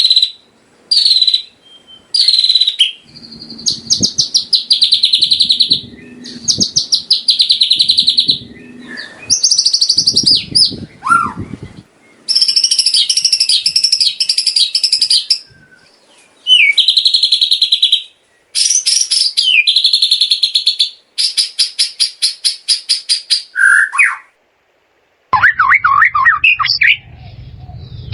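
White-rumped shama singing: loud phrases of high whistles and fast rattling trills, each repeated note run lasting a second or two, with short pauses between. A few seconds before the end the song changes to a different run of varied notes over a low background hum.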